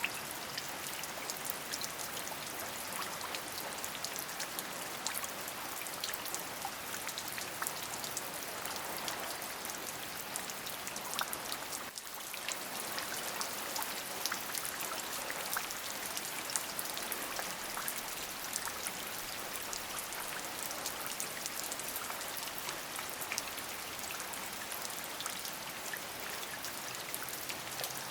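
Steady rain: a continuous hiss with many separate raindrops ticking against a surface. The sound dips for an instant about twelve seconds in.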